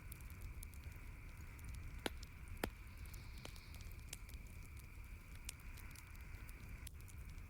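Wood campfire crackling: scattered small snaps throughout, with two louder pops about two and two and a half seconds in, over a low steady rumble.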